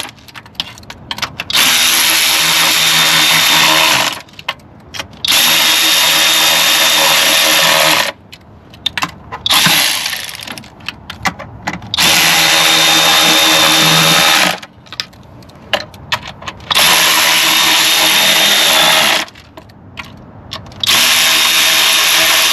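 Power drill spinning the intake plenum's self-tapping bolts into the plastic lower intake one after another: about five steady runs of two to three seconds each, separated by short gaps with small clicks as the bit moves to the next bolt.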